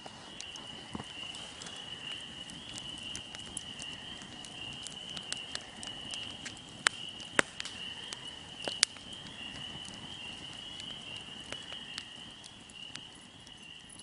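Outdoor nature ambience: a steady high-pitched trilling chorus runs throughout, with scattered sharp clicks, three of them louder in the middle.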